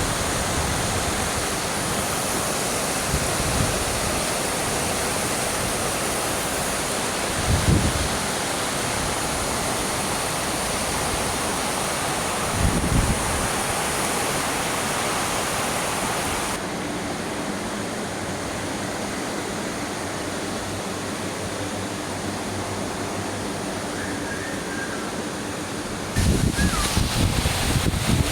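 Heavy rain falling in a steady hiss. A few brief low thumps break in around 8 and 13 seconds. The hiss loses some of its top about halfway through, and a louder rumbling starts near the end.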